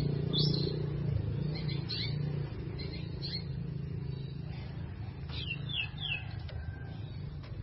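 Birds chirping in short, high, falling notes, with a quick run of three about five and a half seconds in, over a steady low rumble.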